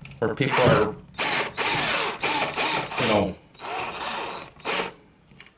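Power drill-driver driving wall screws in a series of short bursts. The motor winds down after each squeeze as the bracket screws are snugged up gently.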